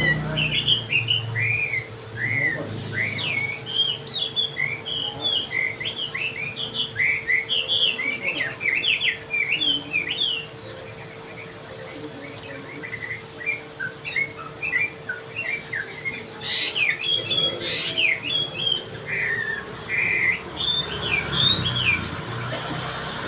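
Male wambi songbird singing a fast, varied run of chirps and whistled notes, thinning out briefly about halfway through, with two harsh, sharp sounds about two-thirds of the way in. A steady faint hum lies underneath.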